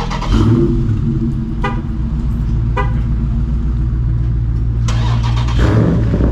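Straight-piped Dodge Scat Pack's 6.4-litre HEMI V8 exhaust running with a steady deep drone, getting louder about a third of a second in.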